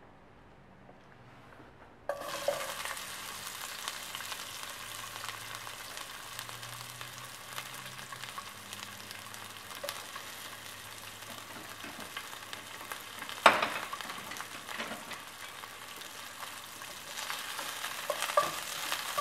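Chopped onion dropped into hot oil in a pan, which breaks into a steady sizzle about two seconds in. A single sharp knock sounds partway through, and near the end a wooden spoon stirs the onion, adding a few clicks.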